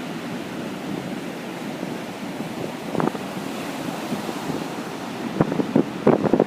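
Waves breaking and washing on a beach under strong wind, a steady rushing noise. Near the end gusts buffet the microphone in a quick run of sharp thumps.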